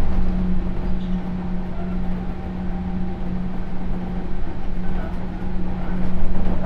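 Sotetsu New 7000 series electric train running on the line, heard from inside the car: steady rumble of wheels on rail with a constant low hum that holds one pitch.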